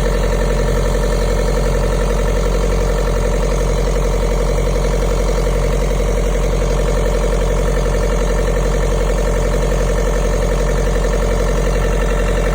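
Kubota 2.2-litre four-cylinder diesel engine running steadily at a constant speed.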